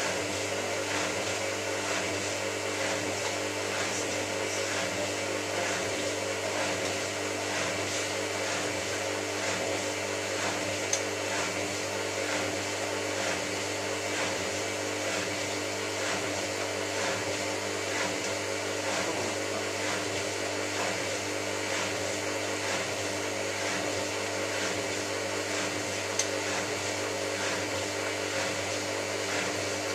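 Hotpoint 9534A washing machine on its final spin, the drum turning at a steady high speed with an even motor whine and hum. Two faint ticks come through, about a third of the way in and near the end.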